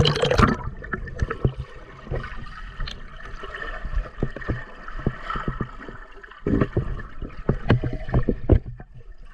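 Water gurgling and sloshing close to a diver's microphone, with a loud rush of water right at the start and many short knocks and clicks throughout.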